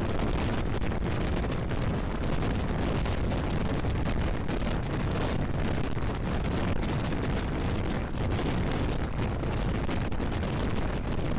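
Steady rushing noise of a moving train, with wind buffeting the microphone.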